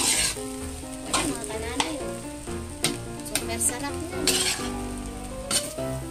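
Metal spatula scraping and tossing fried rice in a metal wok, a stroke about every second, over a steady frying sizzle.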